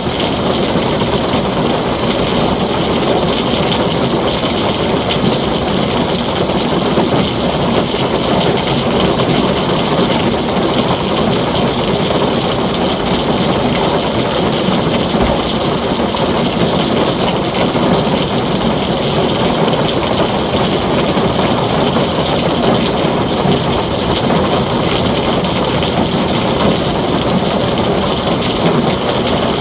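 Heavy rain falling steadily on a tin roof, a dense, even hiss with no breaks.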